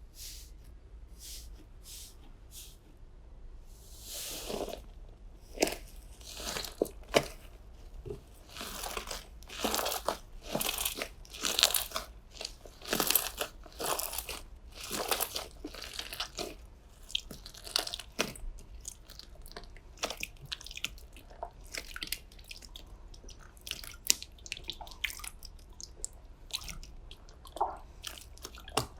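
Slime being squeezed and pressed by hand, giving a fast, irregular run of short crackles and pops, thickest in the first half and thinning out toward the end.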